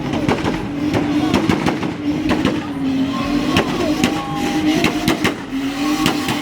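Vehicle engines running at a meet, with many sharp cracks throughout.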